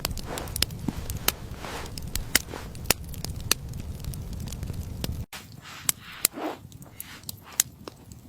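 Irregular sharp crackles and clicks over a low rumble. The rumble cuts off abruptly about five seconds in, and sparser, fainter clicks follow.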